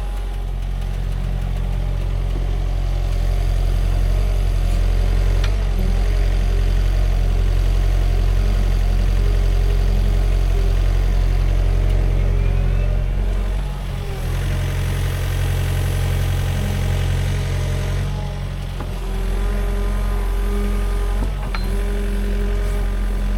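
Sany SY50U mini excavator's diesel engine running steadily under hydraulic load while digging, with a shifting hydraulic whine over the engine hum. The engine note dips briefly twice in the second half as the load changes.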